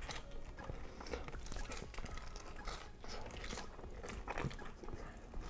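Close-miked chewing and crunching of fried fast food, mainly French fries: irregular crisp crunches and wet mouth sounds.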